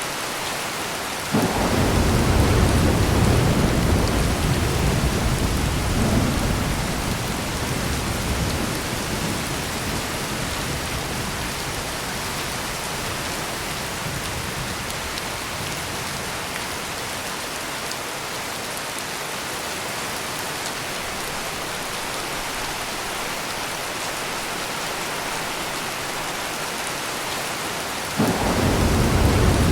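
Heavy, steady rain with two claps of thunder. The first comes about a second in, starts suddenly and rumbles away over several seconds. The second starts near the end.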